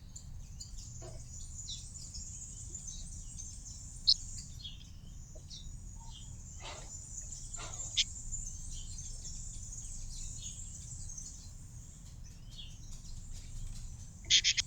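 Small birds chirping at a garden seed feeder: a few short, sharp chirps, about 4 and 8 seconds in and a quick cluster near the end, over a steady high hiss.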